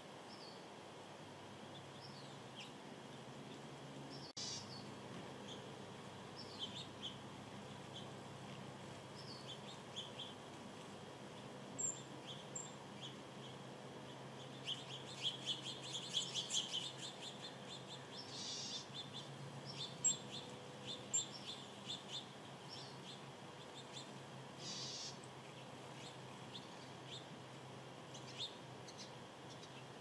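Small birds chirping: scattered short, high chirps, with a busier run of rapid chirps about halfway through, over faint steady outdoor background noise.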